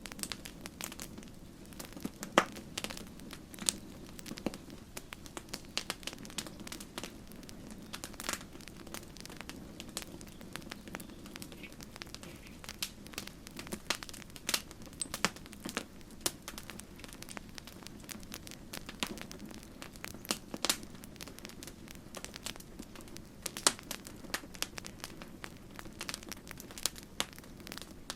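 Wood campfire crackling, with irregular sharp pops and snaps, a few much louder than the rest, over a steady low rush of the flames.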